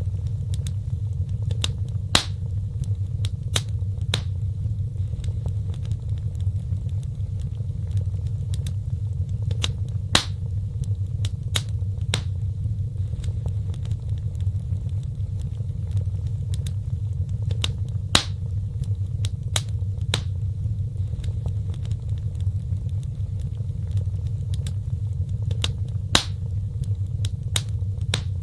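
Wood fire crackling: sharp, irregular pops and snaps over a steady low rumble of burning.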